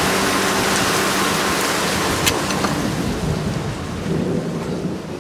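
Torrential rain pouring down, a dense steady hiss that thins out in the second half, with a low rumble partway through.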